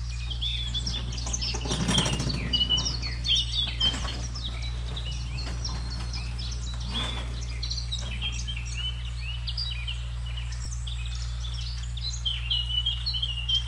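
Several birds chirping and calling, with many short chirps and whistles overlapping throughout, over a steady low hum.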